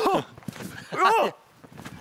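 A dog barking: two short barks about a second apart.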